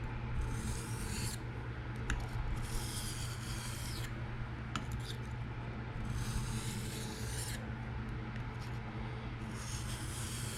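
A PM60-steel knife edge being drawn across a diamond sharpening stone in slow deburring passes: about four long scraping strokes, a few seconds apart, over a steady low hum.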